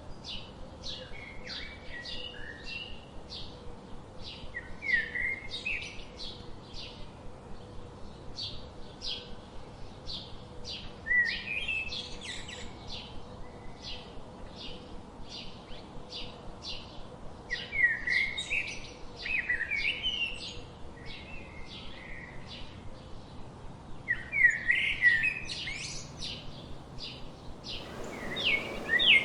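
Songbirds chirping: a steady stream of short, high chirps about two a second, with louder sweeping, warbling phrases breaking in about every six seconds. Near the end the background hiss rises.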